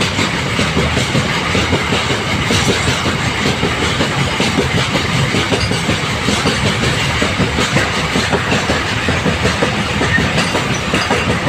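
Train running on the track, its wheels clattering steadily and rapidly over the rails.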